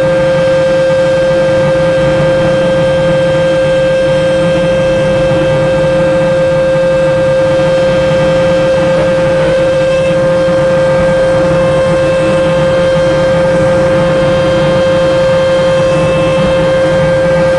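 Mark VII AquaJet GT 700 automatic car wash running: a loud, steady, unchanging whine over an even rushing noise.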